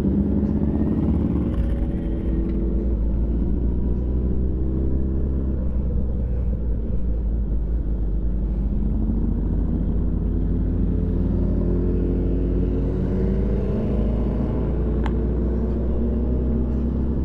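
Motorcycle engine running under way with a steady low rumble. Its pitch dips in the first few seconds, then rises steadily through the second half as it accelerates.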